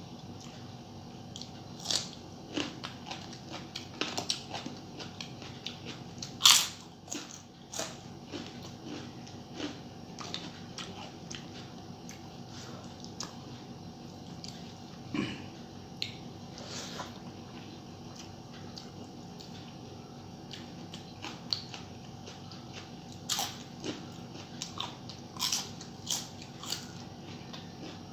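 Close-up eating sounds of a person chewing a meal of rice and curry: irregular wet chewing and crunching with sharp clicks, the loudest about six and a half seconds in.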